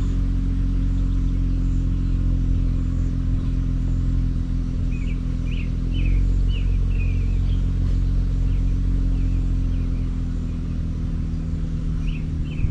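A vehicle's engine running steadily at low speed as it creeps down a boat ramp, its note shifting slightly about halfway through. Birds chirp over it in short bursts, a run of chirps around the middle and again near the end.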